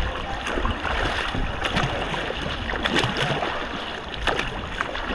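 Kayak paddles dipping and pulling through the water, a steady splashing and sloshing with short, uneven splashes.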